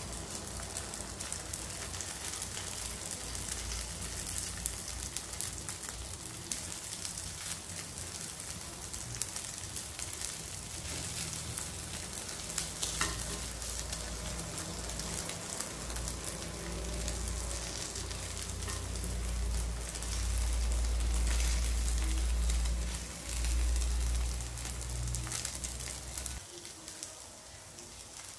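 Pork luncheon meat sticks frying, a steady sizzle full of small pops. A low rumble joins in about halfway through and cuts off a couple of seconds before the end.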